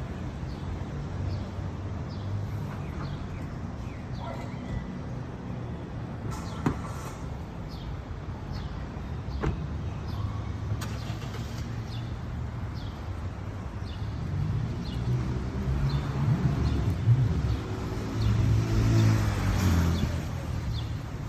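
Low rumble of a motor vehicle's engine, growing louder over the last several seconds, with short small-bird chirps throughout.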